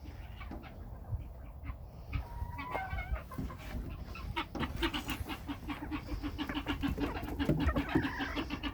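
Chickens clucking, with a fast run of short low clucks in the second half, among scattered clicks and knocks.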